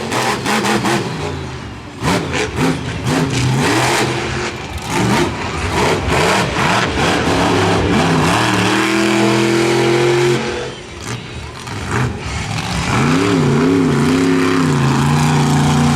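Monster truck's supercharged V8 engine revving hard and easing off over and over, its pitch climbing and falling, with the throttle briefly lifting about two seconds in and again about eleven seconds in.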